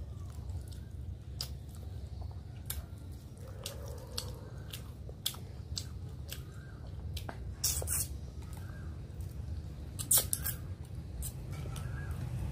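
A person chewing mouthfuls of rice and fish curry, with sharp wet mouth clicks and smacks scattered irregularly, over a steady low hum.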